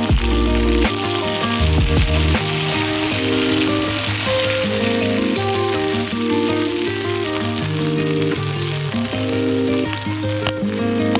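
Food frying and sizzling in a pan, a steady crackling hiss, with background music of melodic notes and a bass line over it.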